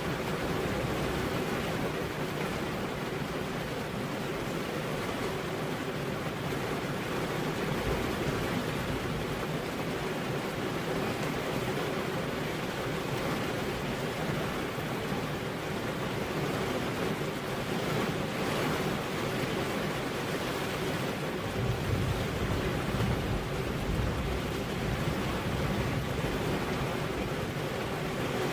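Steady rain, an even, unbroken hiss with a low rumble underneath that grows a little stronger about three quarters of the way through.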